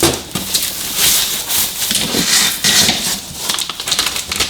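Packaging rustling and crinkling in uneven bursts as parts are pulled out of their wrapping in the box.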